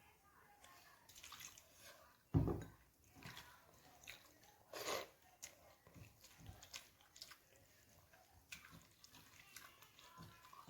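Faint eating sounds: scattered small clicks of food being mixed by hand and chewed, with a dull knock a little over two seconds in and a short louder rustle about halfway through.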